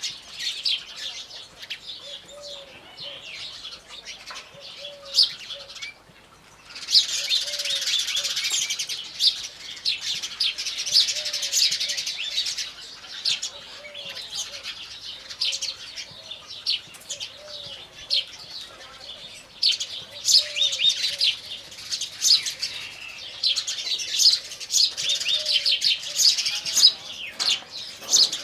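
A flock of house sparrows chirping in a dense, continuous chatter. The chatter dips briefly about six seconds in and then comes back busier. Beneath it a faint low call repeats every second or so.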